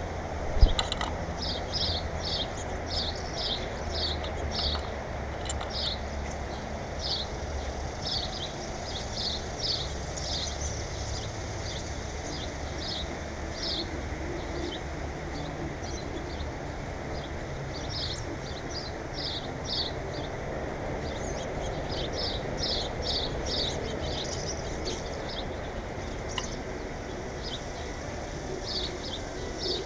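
Small birds chirping in quick runs of short, high chirps over a steady low rumble, with a sharp knock just after the start.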